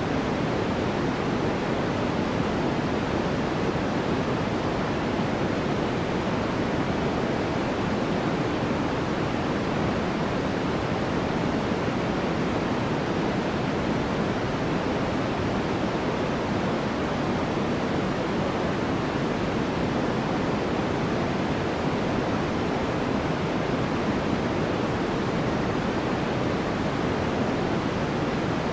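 Continuous synthetic sleep noise, sold as white noise: an even, unchanging hiss with no pitch or rhythm. Its weight sits in the low-middle range and fades toward the top, so it is deeper and softer than true white noise, closer to pink noise.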